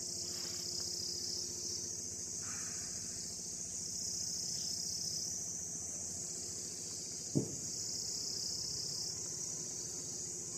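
Steady, high-pitched chorus of insects trilling without a break, with a single short knock about seven seconds in.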